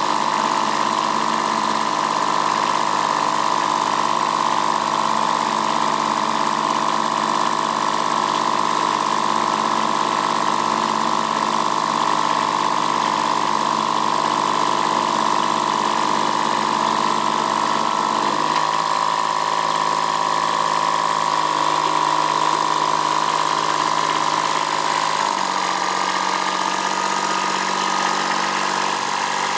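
Kubota B7001 tractor's diesel engine running steadily, with a strong steady high whine over it; its pitch steps down at about 18 seconds in and again at about 25 seconds in.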